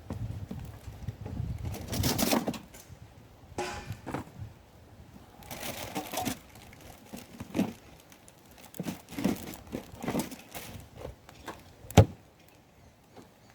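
Rustling and crinkling from things being handled and moved about, with scattered light knocks and one sharp knock about twelve seconds in.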